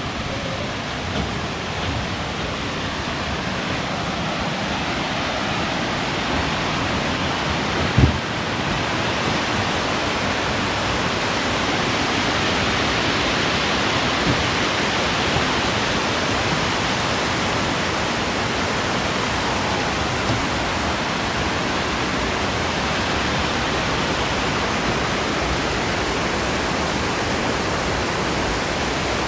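Steady rush of falling water from Bomburella Waterfall, growing slightly louder over the first dozen seconds. A single low thump about eight seconds in.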